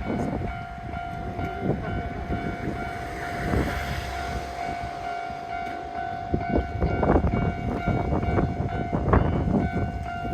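Train passing over a level crossing, its wheels knocking and clattering over the rails, while the crossing's warning bell rings on in one steady tone.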